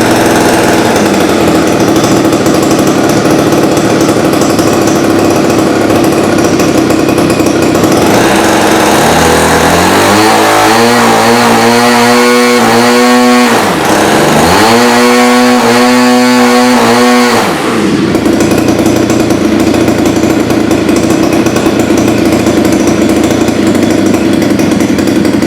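ZDZ 40 RV single-cylinder two-stroke gasoline model-aircraft engine running at a low setting, then opened up to high revs about nine seconds in, with a brief dip, before throttling back down to low running about eighteen seconds in. The high-speed needle is set a little rich for ground running.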